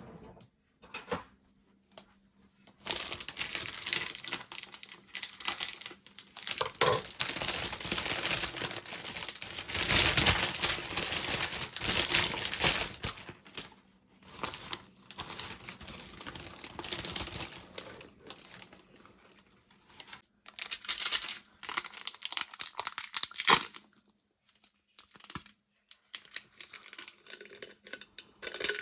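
Crinkling and rustling of packaging being handled, in long dense stretches at first, then in shorter bursts with pauses.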